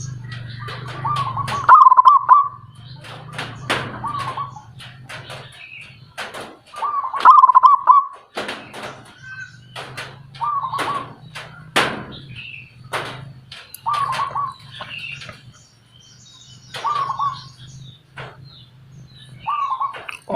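A bird singing: short warbling phrases repeated every two to three seconds, mixed with sharp chips or clicks, over a low steady hum.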